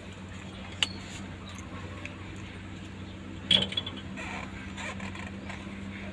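Metal hand tools and engine parts clinking during injector removal on a Cat C6.4 diesel engine: a sharp click about a second in and a louder metallic clank with a brief ring about three and a half seconds in, over a steady low hum.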